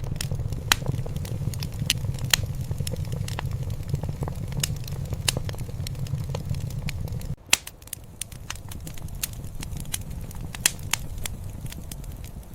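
Wood fire crackling in a fireplace: irregular sharp pops and snaps over a low steady rumble. About seven seconds in, the rumble drops off abruptly while the crackling goes on.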